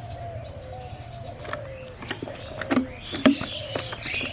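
Birds chirping outdoors, with a repeated falling call and a few sharp clicks or knocks in the second half.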